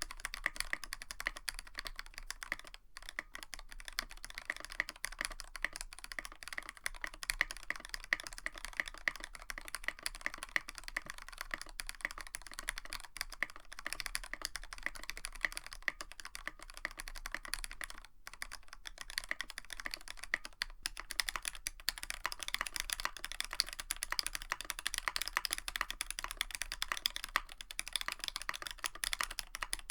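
Continuous typing on a Tofu65 mechanical keyboard with a brass plate and PBT keycaps, first with Aqua King switches (excess factory lube wiped off). About twenty seconds in, the typing switches to C3 Tangerine switches (only top housing lubed), which sound a little louder and brighter.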